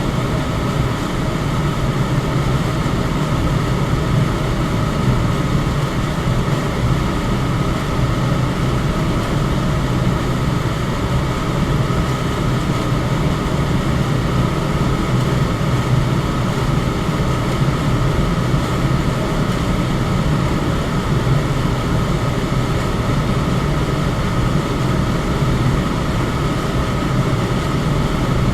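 Electric fan running steadily: an unbroken rush of moving air, heaviest in the low range, with a faint steady high tone over it.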